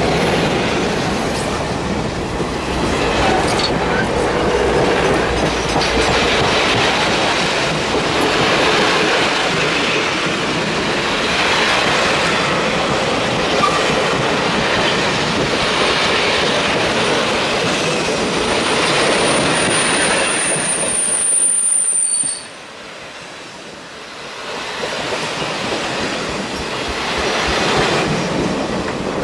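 Railroad train rolling past with a steady noise of wheels on rails. A high, thin wheel squeal comes in about two-thirds of the way through. Then the sound drops off suddenly and builds back up near the end.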